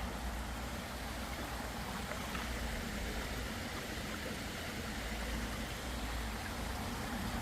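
Small brook babbling, a steady rush of running water, over a constant low rumble.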